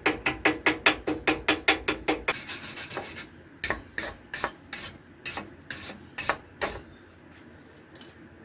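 Hand scrubbing or rasping on metal, quick strokes about five a second, then a short continuous scrub and slower single strokes that stop about seven seconds in, likely cleaning a fresh weld bead on the cast-iron vice.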